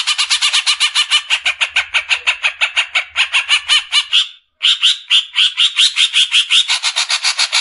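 Green leafbird (cucak ijo) in fast 'besetan' song: a rapid rattling string of sharp chattering notes, about eight or nine a second. It breaks off briefly past halfway, then goes on with slightly rising notes.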